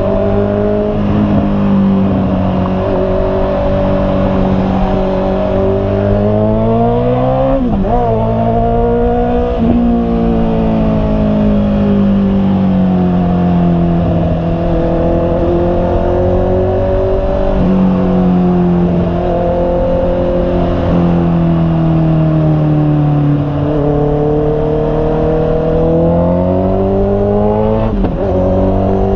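Honda CB650R's inline-four engine under way, its pitch rising and falling with the throttle and jumping sharply at gear changes, about 8 seconds in, midway and near the end.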